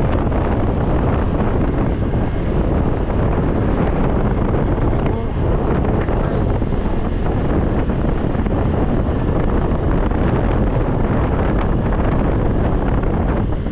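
Steady wind rushing over the microphone of a scooter rider on the move, with the scooter's road noise underneath.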